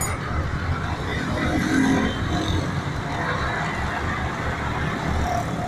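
Steady rumble of motor-vehicle traffic.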